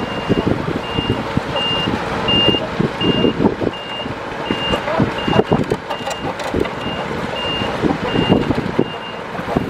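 Heavy machine's reverse alarm beeping evenly, about three high beeps every two seconds, over diesel engine noise and repeated metallic clanks and knocks.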